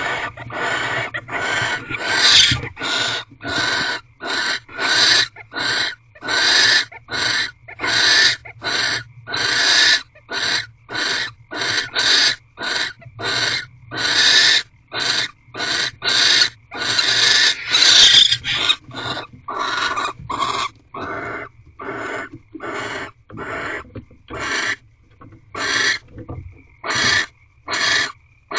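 Barn owls in a nest box giving harsh, hissing calls over and over, about two a second. After about twenty seconds the calls come shorter, fainter and more spaced out.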